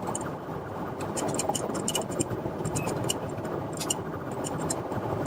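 Car driving: a steady rush of road and wind noise with scattered faint clicks, as heard on police pursuit footage.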